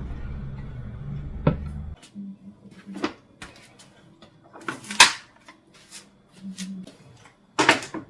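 A steady low machine hum that cuts off suddenly about two seconds in, followed by scattered knocks and clatters of things being handled, the loudest about five seconds in.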